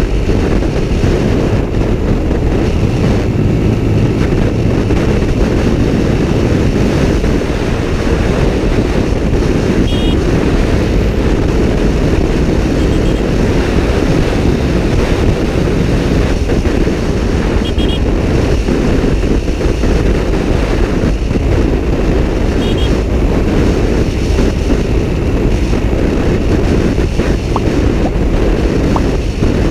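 Steady wind rushing over the microphone of a Suzuki Gixxer SF motorcycle riding at highway speed, with engine and road noise underneath.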